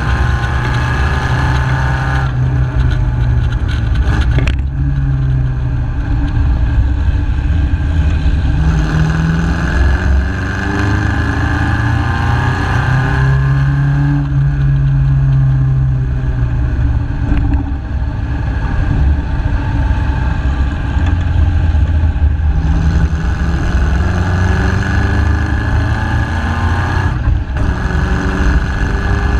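MG KY Special's engine, heard from on board at speed. The engine note climbs in pitch and then drops away several times, as the engine pulls through the revs and eases off between gears.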